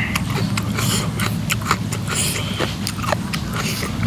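Close-up eating sounds: chewing with a run of wet clicks and smacks, and a few short hissing breaths, over a steady low hum.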